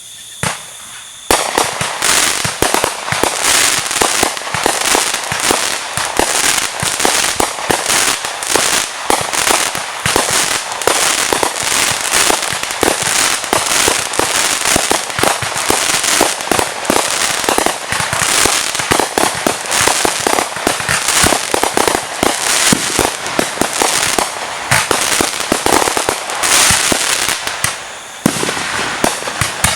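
Fireworks and firecrackers going off in rapid, dense succession: a nearly continuous clatter of overlapping sharp pops and bangs that starts about a second in.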